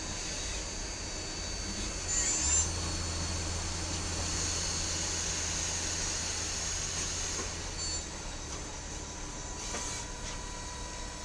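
Citizen M32 Swiss-type CNC lathe running, a steady machine hum with a high whine; the low hum steps up a little over two seconds in, after a short louder noise, and drops back near the end.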